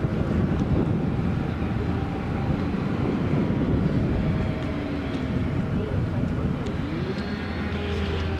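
Steady low rumble of a running engine or machinery with a low hum, and indistinct voices in the background.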